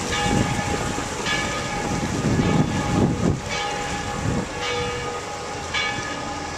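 Church bells ringing, fresh strokes roughly every second over a lingering hum of tones, with low rumbling noise mixed in during the first few seconds.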